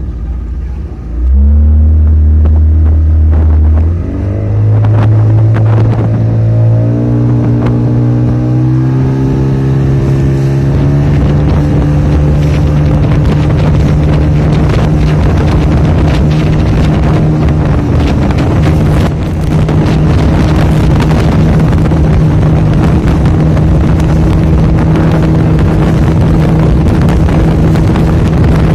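Motorboat engine towing a banana boat, opening up about a second in and climbing in pitch in steps for about ten seconds, then running steadily at speed, with wind buffeting the microphone.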